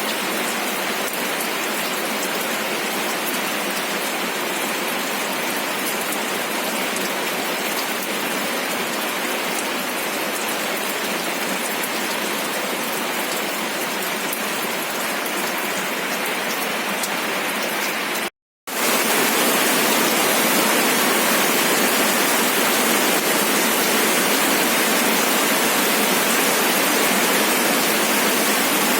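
Steady rain falling, with individual drops ticking through the hiss. About two-thirds of the way through it cuts out for an instant, then comes back as a louder, denser rain hiss.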